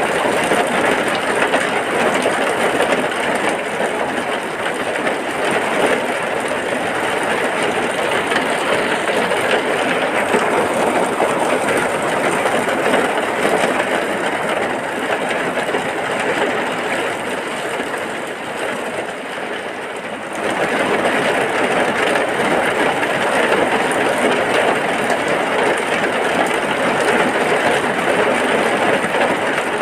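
Heavy rain falling as a steady, dense hiss; it eases a little about two-thirds in, then comes back full-strength all at once.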